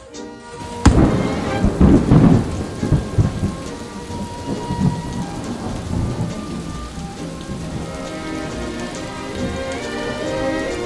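A thunderclap with a sudden sharp crack about a second in, rolling into a rumble for a couple of seconds, then steady heavy rain.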